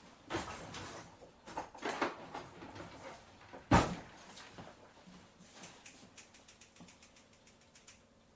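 Kitchen handling sounds: short clatters and rustles, one loud sharp knock a little under four seconds in, then a run of faint, light, quick taps that die away.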